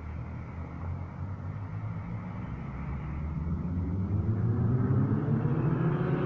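Mitsubishi Colt CZT's turbocharged four-cylinder engine through an aftermarket exhaust: a low, steady rumble that rises in pitch and grows louder from about halfway in as the engine revs up.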